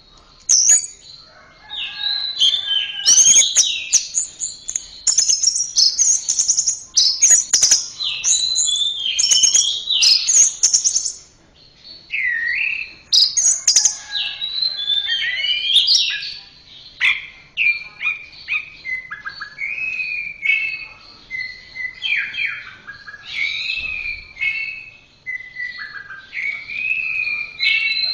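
Orange-headed thrush (anis merah) singing a long, rapid run of varied whistled and twittering phrases that sweep up and down, broken by a brief pause about halfway through.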